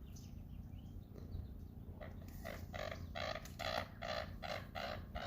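A duck quacking in a quick, even run of about a dozen quacks, about three a second, starting about two seconds in.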